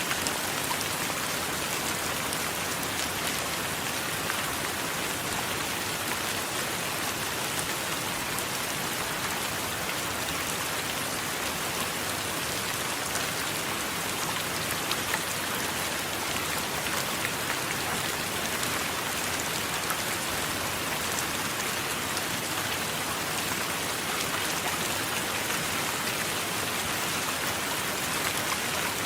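Steady rain falling, an even hiss with scattered drop ticks and a couple of slightly louder drops about halfway through.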